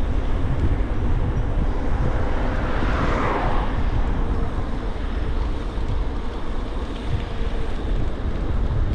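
Wind rumbling on the microphone of a moving e-bike, with a faint steady hum under it. About three seconds in, a swell of hiss rises and fades within about a second.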